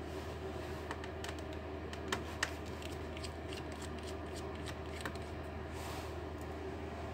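Scattered light clicks and taps of plastic laptop parts being handled and pried, with two sharper clicks a little after two seconds, over a steady low hum.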